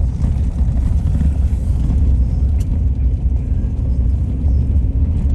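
Steady low rumble of a vehicle driving, heard from inside the cab.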